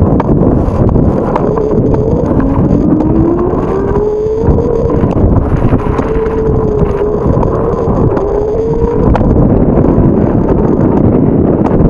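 Strong wind buffeting the microphone with a heavy, constant rumble while riding. Over it, a wavering tone climbs in pitch over a few seconds and then holds and wobbles before fading about three quarters of the way through.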